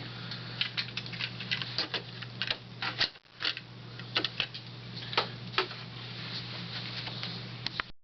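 Carrera Go 1:43 slot cars running on the plastic track: irregular clicking and rattling over a steady low hum. The hum drops out briefly about three seconds in.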